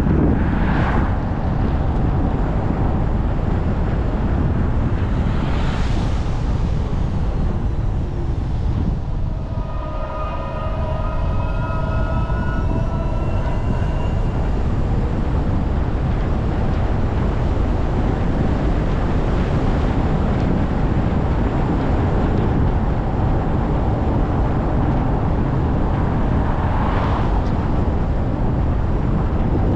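A car driving on rain-wet roads: steady road and tyre noise with the hiss of wet pavement. Brief swells of hiss come about a second in, about six seconds in and near the end, and a few faint steady tones sound for several seconds in the middle.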